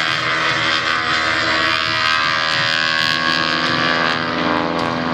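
Souped-up Stearman biplane's 330-horsepower engine and propeller running steadily in flight, the pitch drifting slightly as the plane moves.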